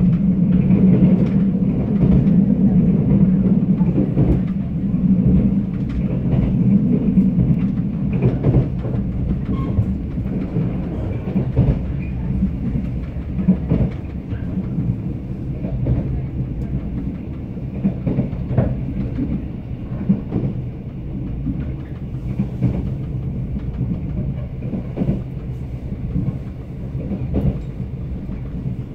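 Moving Mugunghwa passenger train heard from inside the carriage: a steady low rumble of wheels on the track, with scattered clicks and knocks from the rails. A deeper hum stands out over the first several seconds, then eases off.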